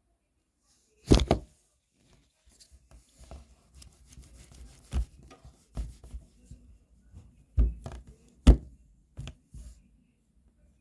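Handling of toy packaging during an unboxing: several sharp knocks or taps, the loudest about a second in and again near the end, with soft rustling and tearing between them.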